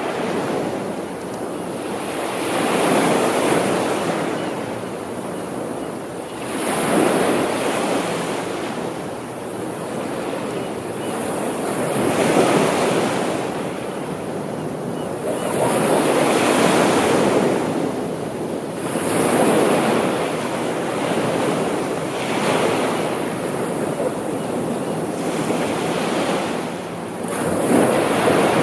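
Sea waves washing onto a shore, a steady rushing surf that swells and falls every few seconds as each wave breaks and draws back.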